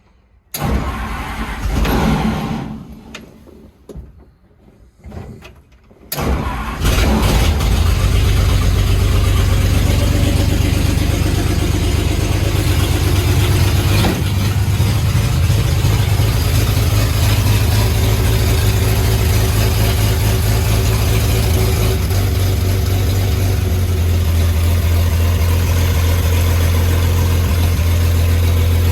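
1950 Ford F1's flathead six-cylinder engine being cranked in short bursts that stop and start. It catches about six seconds in, then runs steadily at idle on its freshly rebuilt carburetor.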